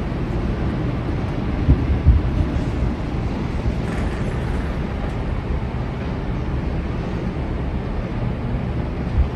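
Steady low outdoor rumble, with a few brief low thumps about two seconds in and again near the end.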